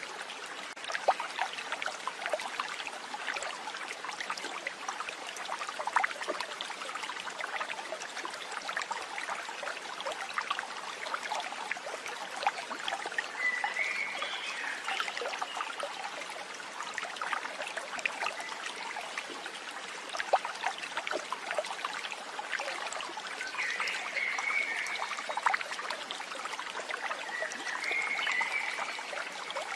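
Water trickling and babbling steadily, like a small stream, with a few short chirps around the middle and again near the end.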